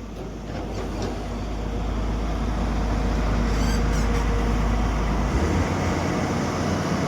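Excavator diesel engine running under load with a steady low rumble. It grows louder over the first two seconds, its pitch shifts about five seconds in, and a few faint knocks come near the start.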